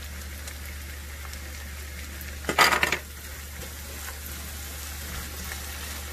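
Onions, bell peppers and mushrooms frying in oil in a nonstick pan, with a steady sizzle while a silicone spatula stirs them. About two and a half seconds in comes a loud, harsh burst lasting about half a second.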